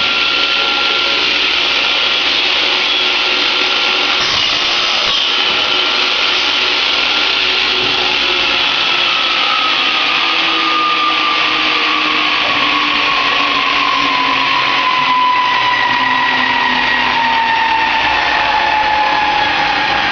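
A machine motor running steadily with a loud, hissing noise. About nine seconds in, a whine starts to fall slowly in pitch, as if the motor is slowing down.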